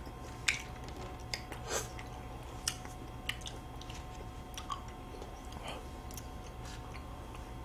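Soft chewing and mouth sounds of people eating chocolate-cookie ice cream sandwiches: scattered small clicks and smacks, a few a second at most.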